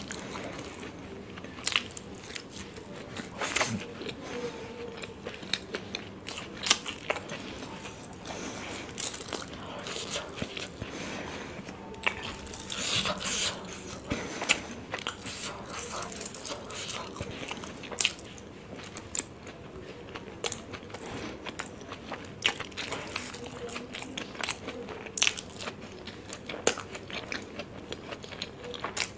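Close-miked chewing and wet mouth sounds of a person eating soft steamed momos dipped in chutney, with irregular smacks and clicks.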